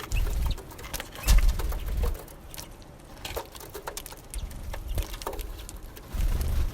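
Small songbirds at a seed feeder: quick irregular pecking and tapping clicks, with a few stretches of low rumbling thumps.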